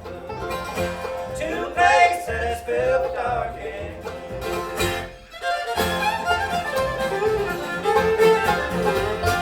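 Bluegrass band playing an instrumental break, fiddle carrying the melody over banjo and guitar, with a brief dip a little past halfway.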